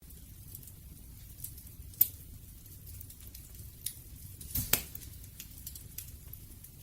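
Wood fire crackling: a steady low rumble of burning with scattered sharp pops and snaps, the loudest about two seconds in and again near five seconds. It starts abruptly out of silence.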